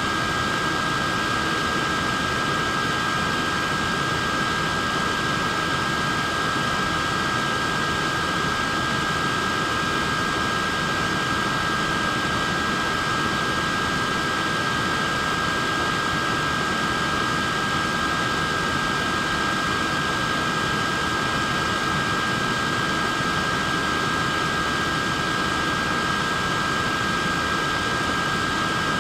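Neck fan running steadily: an even rush of air with a constant high whine from its small motor and blades.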